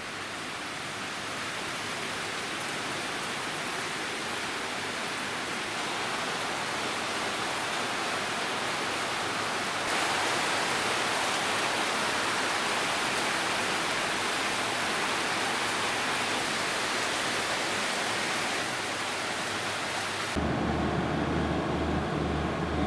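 Heavy rain falling, a steady even hiss that gets a little louder about ten seconds in. Near the end it gives way to a low steady hum.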